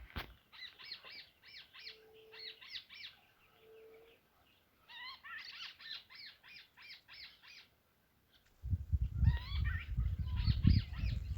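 A wild bird calling in rapid runs of short chirps, about seven a second, in three bouts, with two short low hoots about two and four seconds in. From about two-thirds of the way through, a loud low rumbling noise comes in under the chirps.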